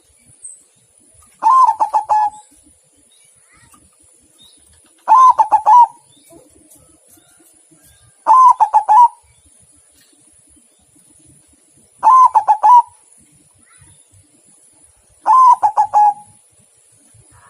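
White zebra dove (perkutut putih) cooing: five short phrases, each a quick run of pulsed coo notes lasting under a second, repeated about every three to four seconds.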